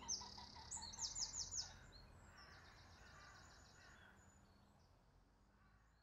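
Wild birds singing, short trills of rapidly repeated high notes, over faint low outdoor background noise, the whole fading out steadily.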